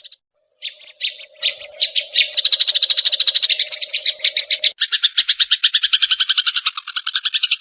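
Sparrows chattering in an agitated fight call: a fast, dense run of harsh chirps, about a dozen a second, with a short break just after the start. About two-thirds of the way through it switches abruptly to a lower, harsher chatter.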